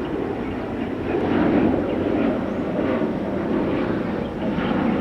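Jet airliner engine noise: a steady, fairly loud rush that swells slightly between one and two seconds in.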